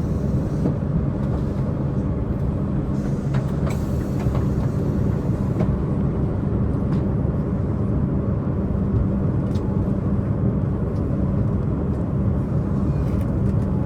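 Diesel multiple unit train running at speed, heard from inside the passenger car: a steady low diesel engine drone under wheel-on-rail rumble, with a few faint clicks.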